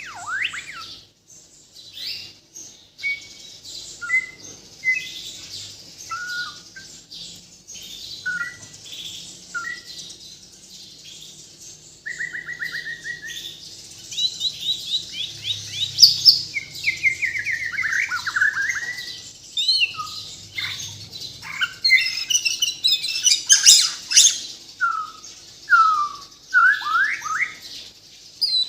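Murai batu (shama) from Borneo singing a long, varied song of clear whistles, quick downward-sweeping notes and fast trills. The phrases come thicker and louder in the second half, the full repertoire of learned phrases that keepers call 'full isian'.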